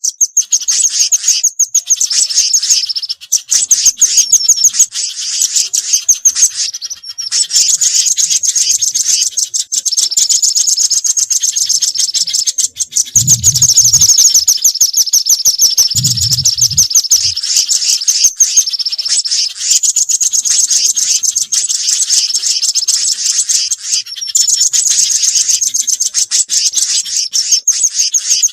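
Bird-lure recording of mixed small garden birds, such as nuthatches and spiderhunters, calling in dense, rapid high-pitched chirps and trills. Two brief low sounds come about halfway through.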